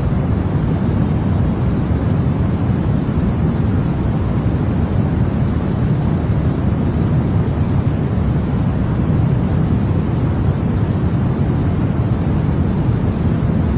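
Continuous white noise for baby sleep: an unchanging, even rush with most of its weight in the low end, so it sounds deep rather than hissy.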